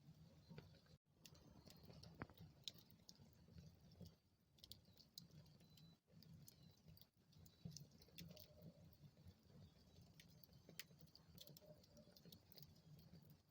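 Wood fire burning in a fireplace, crackling faintly: scattered sharp pops and snaps over a soft low rumble.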